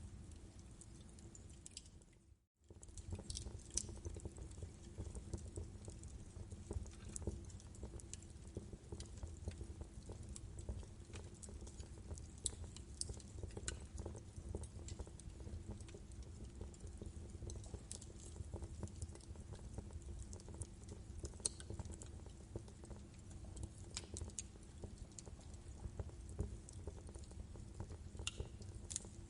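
Wood fire crackling in a fireplace: a steady low rumble of burning logs with frequent sharp pops and snaps. About two seconds in, the sound cuts out for a moment, then resumes.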